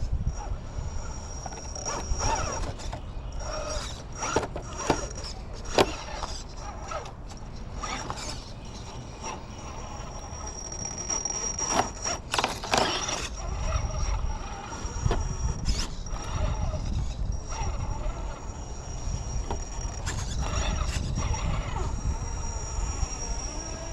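Radio-controlled rock crawler driving over rock: a high thin whine with scattered clicks, knocks and scrapes of tires and chassis on stone, over a low rumble.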